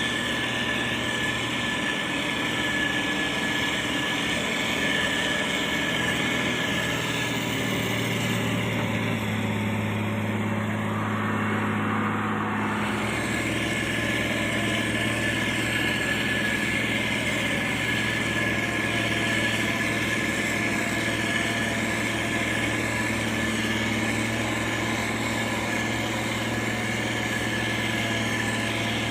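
Diesel engine of heavy road-construction machinery (motor grader or road roller) running steadily, with a brief change in its note about ten seconds in.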